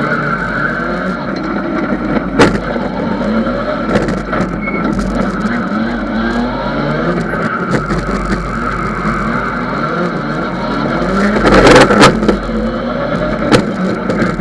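Ford Sierra Cosworth rally car's turbocharged four-cylinder engine revving hard, its pitch climbing and falling again and again through the gears. Sharp cracks break in several times, the loudest about twelve seconds in.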